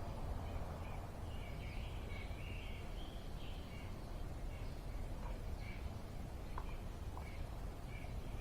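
Birds chirping over a steady low background rumble, with a couple of faint clicks near the end.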